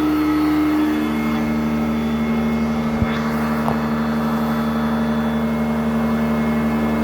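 Sanitaire SC899 commercial upright vacuum cleaner running steadily. Its motor pitch steps down slightly about a second in, and there is a single knock about three seconds in.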